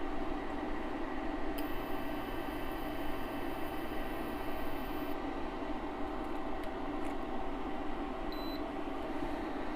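Steady low rushing noise, with a faint high electronic whine for about three and a half seconds and one short electronic beep near the end.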